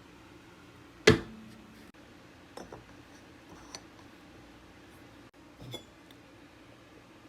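Kitchen handling noises: one sharp knock of something set down hard about a second in, then a few light clinks and taps of dishes or glassware.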